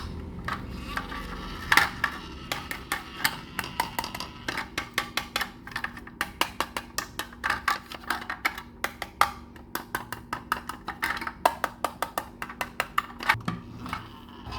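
Small toy trucks being handled: many quick, irregular clicks, taps and knocks of plastic and die-cast parts, several a second, over a faint steady hum.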